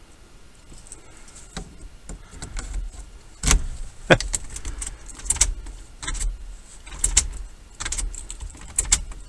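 Irregular sharp metal clicks and knocks, with a key and its ring jingling, as the ignition lock cylinder is worked back into a 1994 Ford F250's steering column. The loudest knocks come about three and a half and four seconds in.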